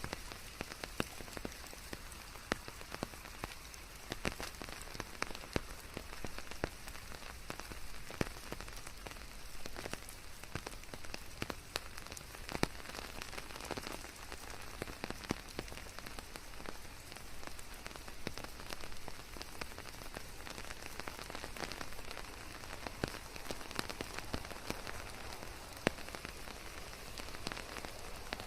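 Steady rain: an even hiss dotted with many sharp individual drop impacts throughout.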